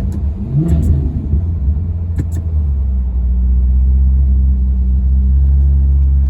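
Maserati Quattroporte V8 blipped once about a second in, the revs rising and falling back, with a few sharp cracks around two seconds in, then settling into a steady idle rumble.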